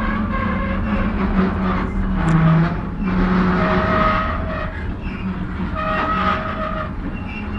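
Freight train rolling into a rail yard: a steady low rumble and hum, with high ringing tones that come and go.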